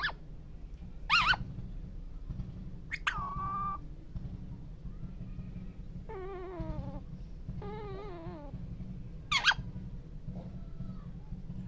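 A parrot calling: a few short, sharp screeches, and in the middle two longer wavering calls that fall in pitch. A steady low hum runs underneath.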